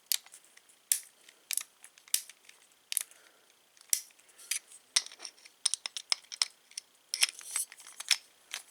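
Small metal parts of a Schlage keyed door knob clicking and scraping as it is handled and its turn piece is lined up with the centre rod: a string of sharp clicks, coming faster from about five seconds in.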